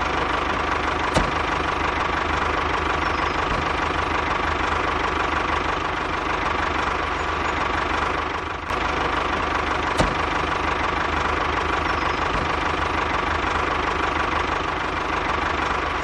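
Small engine running steadily at a constant speed, with two brief clicks, one about a second in and one about ten seconds in.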